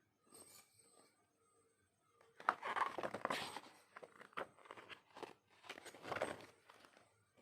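Packaging and paper items being handled: irregular bursts of rustling and crinkling with small clicks, loudest about two and a half to three and a half seconds in and again around six seconds.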